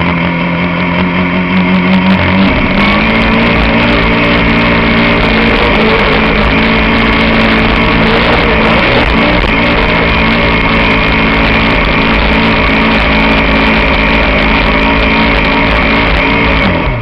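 Pulling tractor's engine running flat out under load, one loud steady engine note that rises a step about two and a half seconds in, holds, then falls and dies away near the end.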